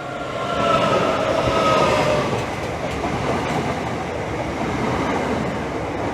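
A Class 365 electric multiple unit pulling into the platform: a whine from its traction equipment falls in pitch over the first two seconds or so as it brakes, over a steady running noise of wheels on rail.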